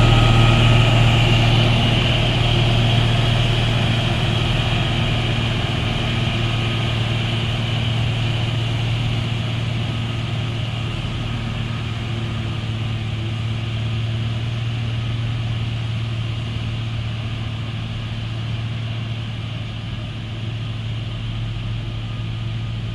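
Heavy truck's diesel engine running at a steady pitch, slowly fading.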